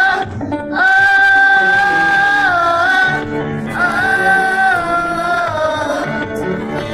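Gospel hymn singing: long held sung notes over shifting lower musical notes, with a short break about half a second in.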